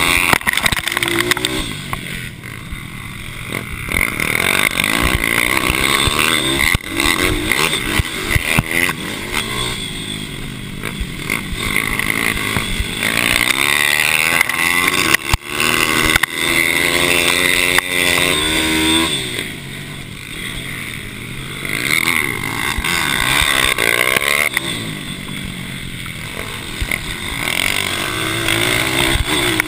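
Mini racing motorcycle engine at high revs, pitch climbing as it accelerates and falling away as it backs off, over and over, with the loudness swelling and dropping every several seconds.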